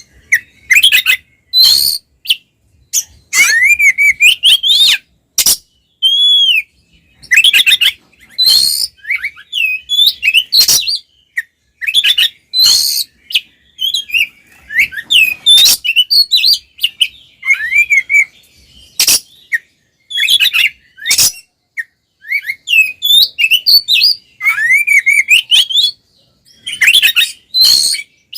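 Oriental magpie-robin (kacer) in its excited fighting-mode song: rapid, varied phrases of rising whistles, chirps and harsh rasping notes, broken by short pauses.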